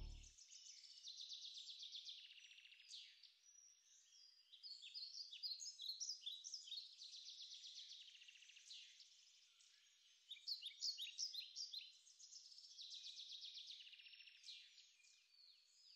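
Faint birdsong: small birds chirping and trilling in quick repeated phrases, busiest around six and eleven seconds in.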